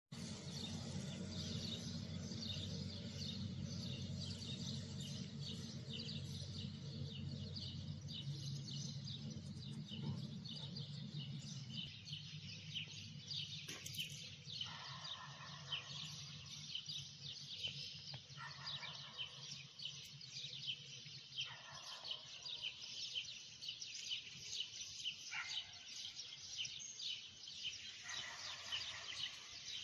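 A chorus of small birds chirping: many rapid, overlapping short chirps, with a low steady hum underneath for the first half.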